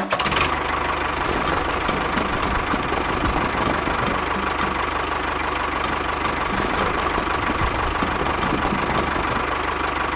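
Small motor of a miniature DIY model machine running steadily, with a constant whine and a fast, even rattle.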